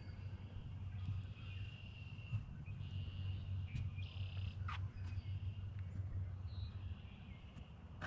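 Outdoor ambience: a steady low rumble under faint, intermittent high bird calls, with one short chirp-like sweep a little past the middle.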